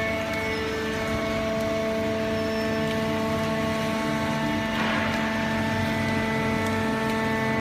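Cardboard baler and its feed conveyor running: a steady mechanical hum with several held tones. A brief burst of noise comes about five seconds in.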